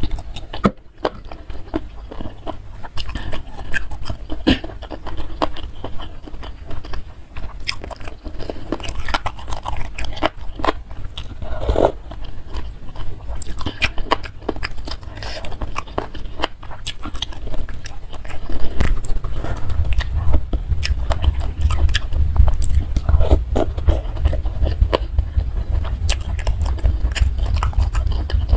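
Close-miked mouth sounds of eating spicy instant noodle soup: steady biting and chewing with many small wet clicks. A low rumble joins in about two-thirds of the way through.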